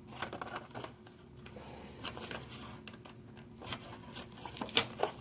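Hands handling a Hot Wheels die-cast toy truck: scattered small clicks and rustles, growing louder and sharper near the end.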